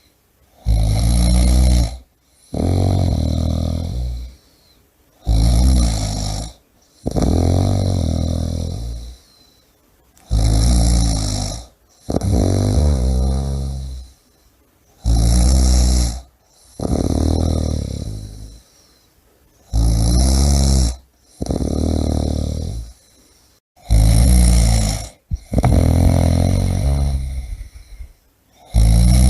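A person snoring in a steady rhythm, about one breath every four to five seconds. Each breath is a short rattling snore on the in-breath, then a longer snore on the out-breath that fades away.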